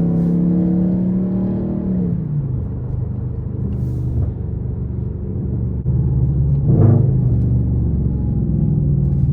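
Straight-piped Infiniti M56's 5.6-litre V8 exhaust running. The note holds steady, drops as the revs fall about two seconds in, then settles lower and swells briefly near the seventh second before levelling off again.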